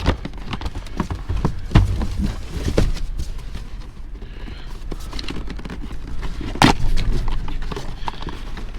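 Rummaging through trash in a dumpster: scattered knocks and clunks with rustling in between, the sharpest knocks just under two seconds in and past the middle.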